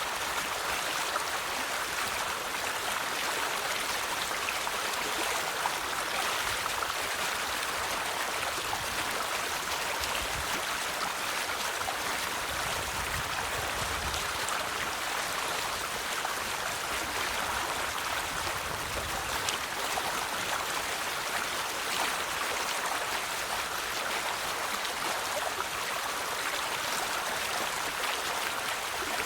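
River water flowing steadily over rocks, a continuous babbling rush with a faint low rumble added for a few seconds near the middle.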